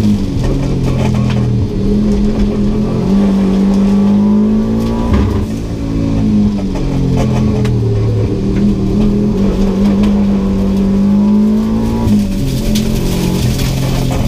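Subaru GC8 WRX's turbocharged flat-four engine under hard acceleration, heard from inside the cabin. Its pitch climbs steadily, falls sharply about five seconds in and again about twelve seconds in, then climbs again.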